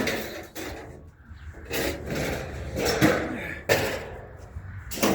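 Scrap being shoved and dragged into place on a truck bed: a run of irregular scraping and rubbing noises, with a sharper knock about three seconds in.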